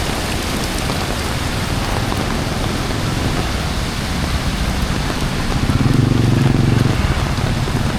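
Heavy rain falling in a steady hiss. A low rumble swells for about two seconds past the middle.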